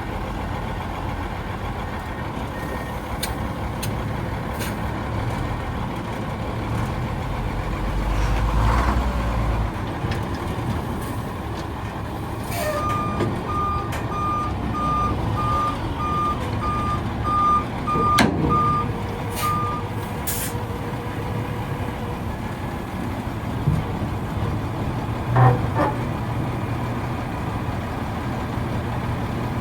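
2001 International 4700 dump truck's diesel engine running steadily, with a back-up alarm beeping about one and a half times a second for some seven seconds midway through. A few short sharp sounds stand out later on.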